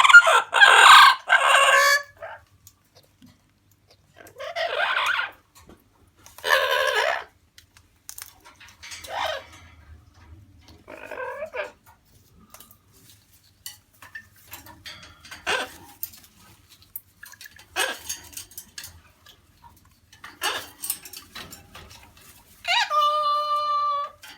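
Yellow-naped Amazon parrot calling: loud, harsh squawks in the first couple of seconds and again twice a few seconds later, then fainter short calls and clicks, and a long, steady-pitched call near the end.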